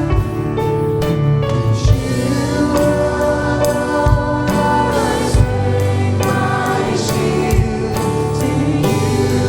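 A church worship band and singers performing a contemporary Christian worship song: sung voices over instrumental backing, with occasional drum hits.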